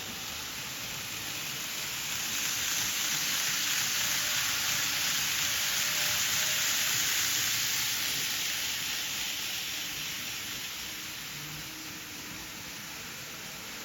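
N gauge model train running past on the track, a steady hissing roll of its wheels and motor that swells as it comes close, about six seconds in, and then fades away.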